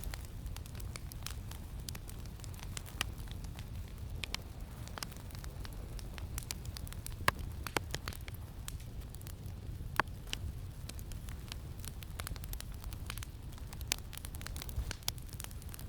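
Campfire crackling, with scattered sharp pops over a steady low rumble of wind; the two loudest pops come about seven and ten seconds in.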